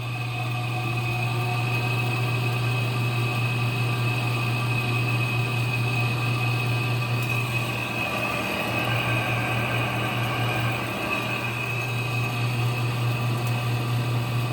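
Window air conditioner's fan motor and blower running in fan-only mode with the compressor off. It gives a steady low hum with a high whine on top, and it grows louder over the first couple of seconds as the fan spins up.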